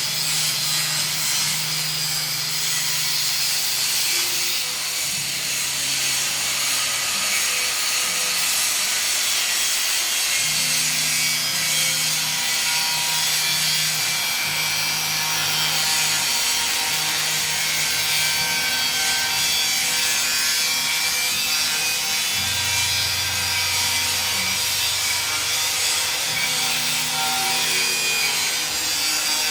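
Power grinder cutting through 2 mm steel plate: a continuous harsh hiss of the disc on steel over the motor's low hum, which drops in pitch at times as the cut loads it.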